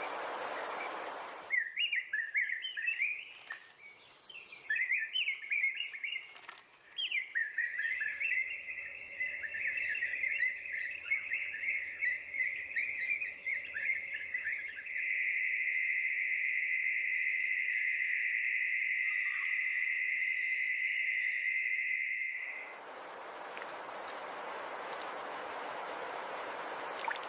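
Nature ambience: birds chirping in rapid trills over a steady high insect whine, changing about halfway through to a continuous, even insect buzz. A soft rushing noise, like running water, comes before and after.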